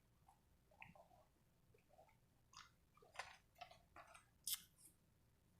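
A person chewing food close to the microphone: quiet, irregular mouth clicks and smacks, the loudest a little past halfway.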